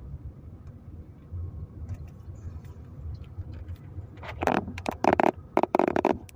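Steady low rumble of a car cabin on the move, with a cluster of several short, loud noises about four seconds in, the loudest thing heard.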